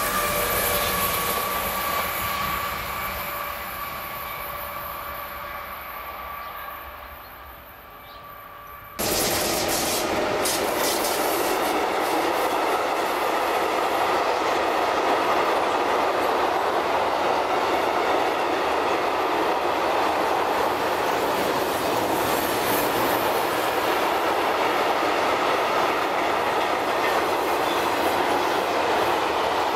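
A passenger train rolls away around a curve, its sound fading, with a steady high wheel squeal. About nine seconds in, it cuts abruptly to a loud, steady rumble and clatter of a freight train of loaded car-transporter wagons rolling past at speed.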